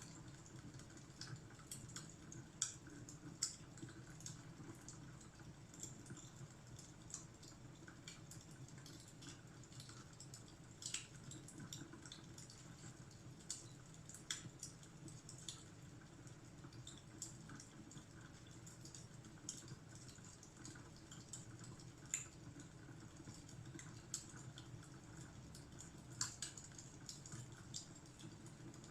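Quiet wood fire crackling: irregular sharp pops and snaps, a few of them louder, over a low steady rumble.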